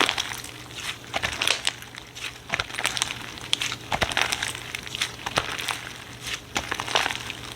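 Slime being squeezed and worked by hand, giving irregular crackling and popping clicks with soft squelches between them.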